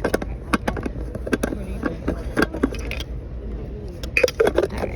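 Steady low rumble of a moving train carriage, with a run of irregular sharp clicks and knocks over the first few seconds and a short burst of voice near the end.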